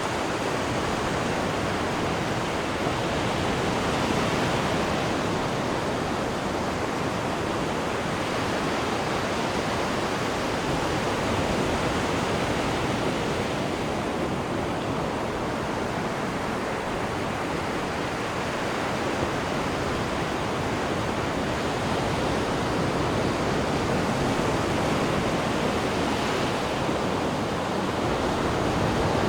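Wake water churning and rushing behind a cruise ship's stern: a steady wash that swells gently about every ten seconds.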